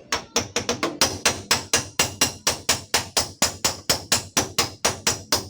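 Rapid, evenly paced hammer taps on a car's steel door panel, about five a second, each with a short metallic ring: dent knocking to work a small dent back out of the panel.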